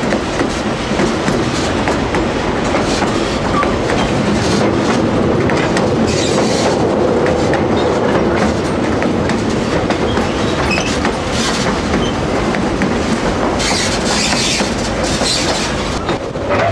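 White Pass & Yukon Route narrow-gauge passenger train running up the mountain grade, heard from aboard: steady rumble and clickety-clack of wheels on the rails. A few short stretches of higher wheel hiss and squeal come through, about a third of the way in and again near the end.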